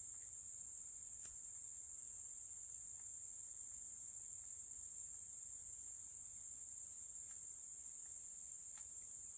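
Steady high-pitched chorus of insects droning without a break, with a couple of faint ticks.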